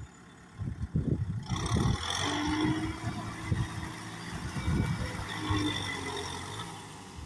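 Kubota tractor engine running, with a hissing noise that joins about a second and a half in.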